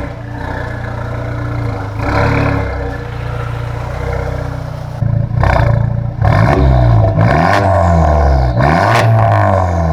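Honda Civic Type R FK2's turbocharged 2.0-litre four-cylinder through a Milltek cat-back exhaust. It runs steadily at first with one brief blip about two seconds in, then from about five seconds in it is revved repeatedly and loudly, the pitch rising and falling several times.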